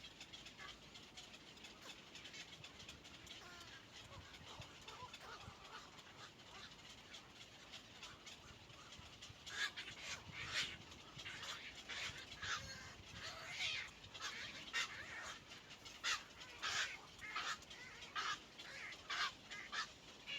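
Nestling birds at the nest calling in a rapid series of short, squeaky begging calls from about halfway in, as young do when being fed.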